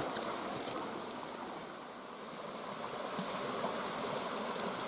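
A rain-swollen woodland creek running fast in flood, a steady rush of water that dips slightly about two seconds in.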